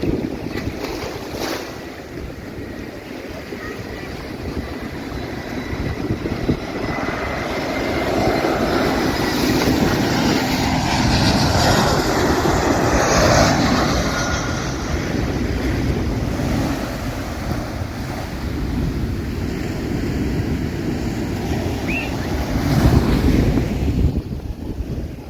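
Surf breaking on the beach with wind buffeting the microphone; the noise swells to its loudest around the middle, eases off, and surges again briefly near the end.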